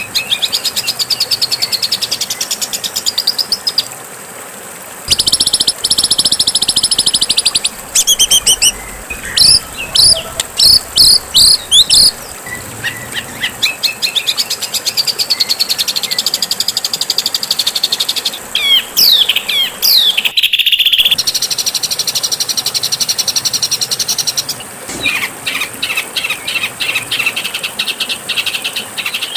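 Recorded songbird song: fast high trills and buzzy chattering phrases. A run of sharp, separate repeated notes comes about nine to twelve seconds in, and there is a short lull about four seconds in.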